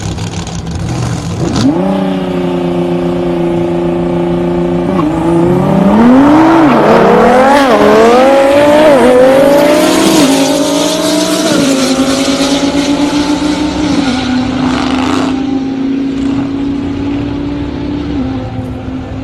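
High-powered race cars, a twin-turbo Lamborghini Huracán and a GT-R, sit at steady raised revs on the line, then launch about five seconds in. The revs climb and drop again with each quick upshift, loudest in the middle of the pull, then the engines settle and fade as the cars run away down the half-mile.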